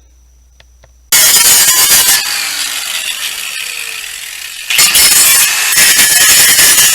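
A power tool cutting the old sheet-metal body, starting abruptly about a second in: harsh, dense noise that eases for a few seconds, then comes back loud near the end.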